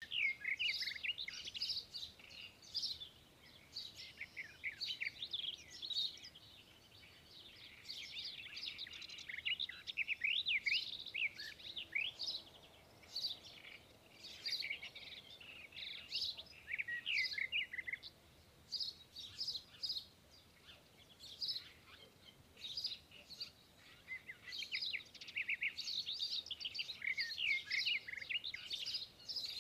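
Small birds chirping and twittering in quick, rising and falling notes, almost without pause, thinning out for a few seconds past the middle.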